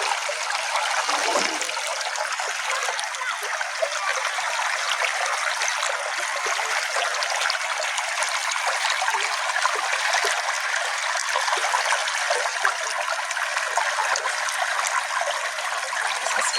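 A small forest stream trickling and babbling over stones, a steady water sound full of small splashes.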